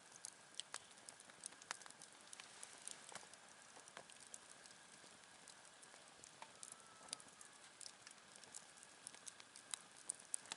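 Wood campfire crackling softly, with scattered irregular pops and snaps over a faint hiss.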